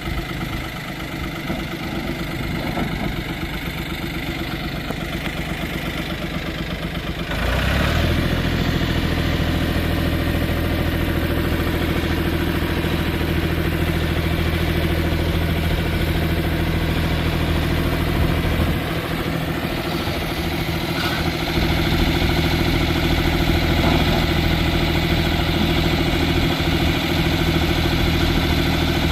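Ford 3500 loader backhoe's diesel engine running. A little way in it steps up abruptly to a louder, fuller run, as at higher revs or under load. It eases briefly about two-thirds through, then picks up again.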